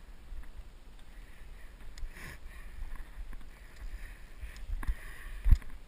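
Low wind rumble on the microphone over the wash of river water, with scattered knocks and one sharp, low thump about five and a half seconds in.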